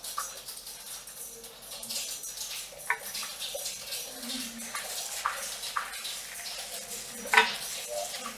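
Rain falling on a metal roof as a steady hiss, over water splashing during a hair wash at a salon basin. A few sharp clicks and knocks break through, the loudest about seven seconds in.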